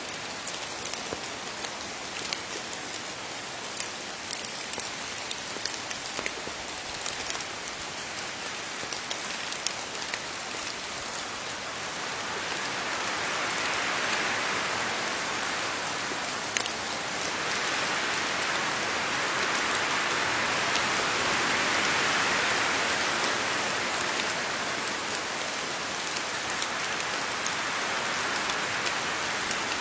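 Steady rain falling on leaves, a continuous hiss with many close drop patters, swelling heavier between about 12 and 24 seconds in.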